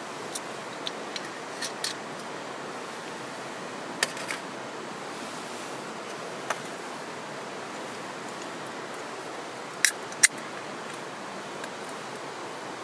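Steady rush of flowing stream water, with scattered sharp clicks on top: several in the first two seconds, a couple around four seconds, and two louder ones close together near ten seconds.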